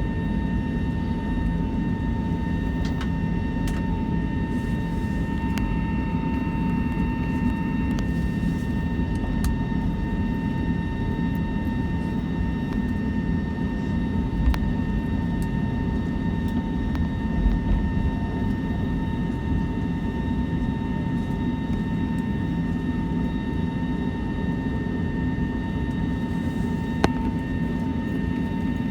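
Cabin noise of an Airbus A320 taxiing: the jet engines at idle give a steady whine over a low rumble, with a few faint ticks and knocks.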